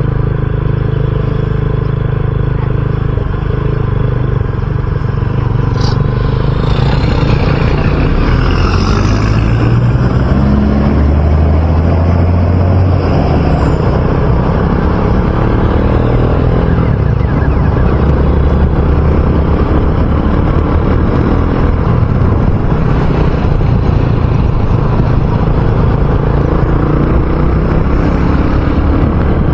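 RUSI Classic 250 motorcycle engine running while riding, with road and wind noise. The engine note rises in steps about ten seconds in, then holds steady.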